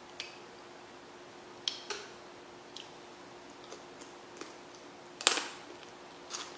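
Snow crab shell being cracked and pulled apart by hand: several sharp snaps and crackles, the loudest about five seconds in.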